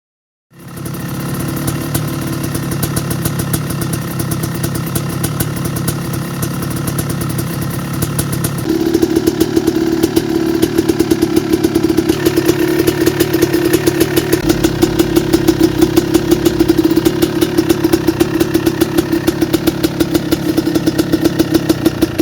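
1995 Kawasaki KX250's two-stroke single-cylinder engine running steadily at a fast idle. About nine seconds in it steps up to a louder, slightly higher steady speed and holds there.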